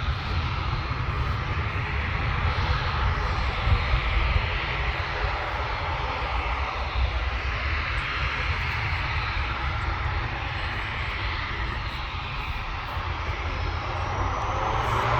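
Jet airliner engines running, a steady jet noise with a deep rumble underneath and slowly shifting bands of hiss, as an aircraft moves on the airfield.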